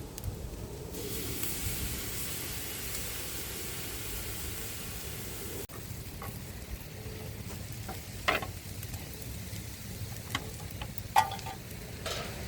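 Food frying in a pan with a bright sizzle that starts about a second in and stops abruptly about halfway. After it come a few sharp clinks and knocks of cooking utensils, the loudest near the end.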